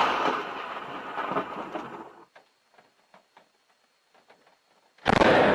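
Close lightning strike's thunder crack, already sounding and fading, cut off sharply about two seconds in. Then faint patter, and a second sudden loud thunder crack near the end.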